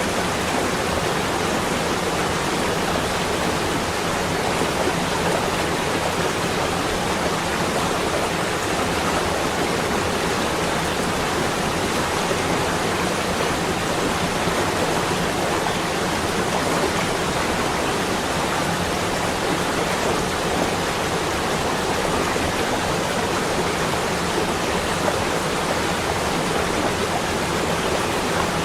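Steady, even rushing noise with no separate events or rhythm, of the kind made by falling rain, rushing water or wind.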